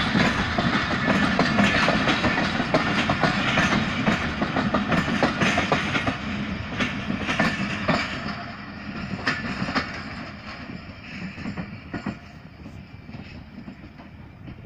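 Pakistan Railways passenger coaches passing close by, their steel wheels clattering over the rail joints in a rapid clickety-clack. About ten seconds in, the clatter fades as the last coach moves away down the line.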